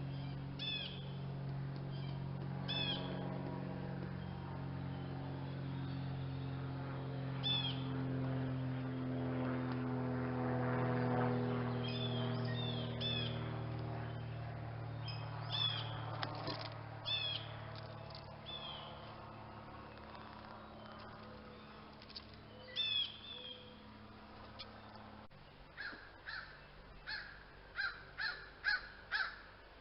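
Wild birds calling outdoors: scattered short high chirps, then a quick run of about eight loud, repeated calls near the end. Under the calls runs a steady low hum that swells in the middle and cuts off suddenly about 25 seconds in.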